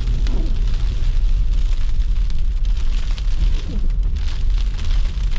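Car interior noise while driving on a snowy road: a steady low rumble of engine and road, with a crackling hiss of tyres through wet snow and slush. Two short falling squeaks, near the start and about three and a half seconds in.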